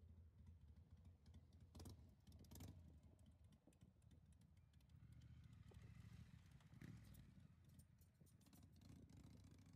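Near silence: faint low room hum with a few soft clicks, two of them about two seconds in.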